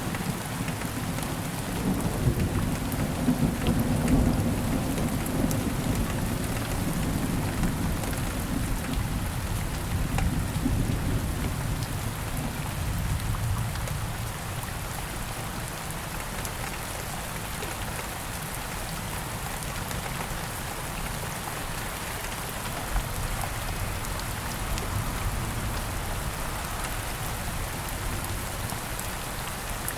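Steady rain falling in woods, an even patter and hiss. A low rumble swells under it in the first few seconds and fades away by about halfway.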